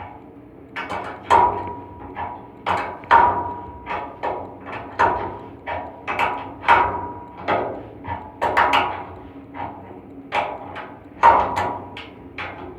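Repeated sharp metal knocks on an air-handling unit's blower assembly during a V-belt change, irregular and about two a second, several leaving a short metallic ring.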